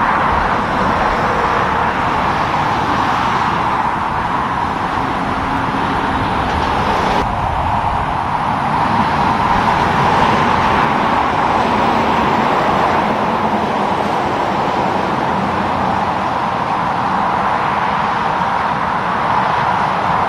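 Road traffic noise: a steady wash of tyre and engine noise from passing vehicles, with an abrupt shift in tone about seven seconds in.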